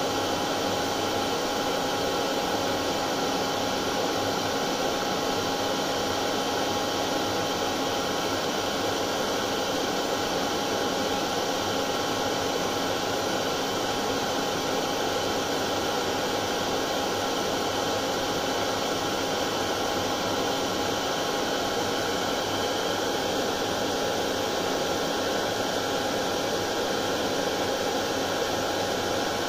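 Hair dryer running continuously at a steady speed, a level whoosh of air with a constant motor hum and a faint steady tone.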